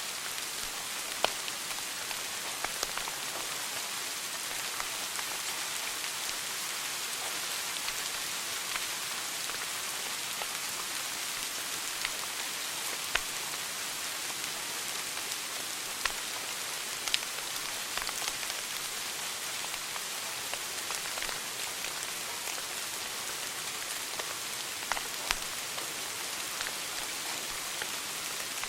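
Wood fire burning in a fireplace: a steady hissing crackle with scattered sharp pops at irregular moments.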